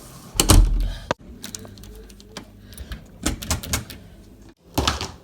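A string of knocks and clicks, the loudest a thump about half a second in, with a sharp click just after it, a cluster of clicks a little past three seconds and another knock near the end.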